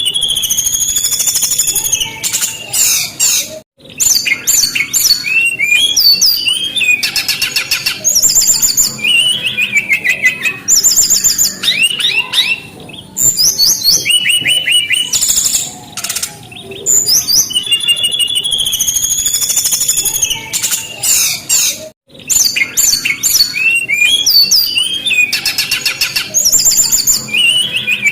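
Brown-chested jungle flycatcher singing a long, varied song of high whistled glides, fast trills and rapid rattling phrases, pausing briefly twice.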